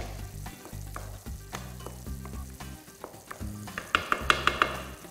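Food sizzling as it fries in oil, with a quick run of sharp clicks about four seconds in.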